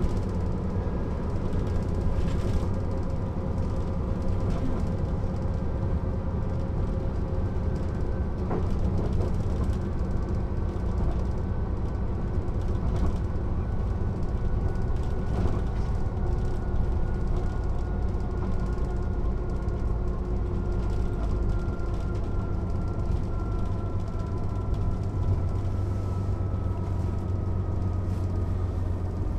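Mercedes-Benz O 407 bus's six-cylinder diesel engine running under way: a steady low drone with a whine that slowly falls in pitch over the second half. A single click about eight and a half seconds in.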